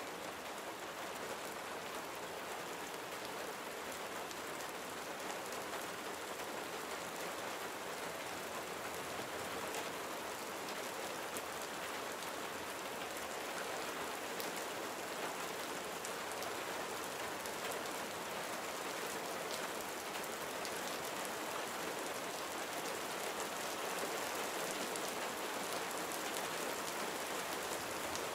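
Steady gentle rain falling, with a constant hiss of rain on surfaces and fine individual drop ticks.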